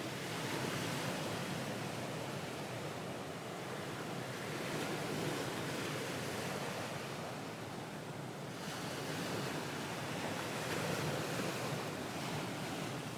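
Recorded ocean waves: a steady wash of surf that swells and ebbs slowly, a wave about every few seconds.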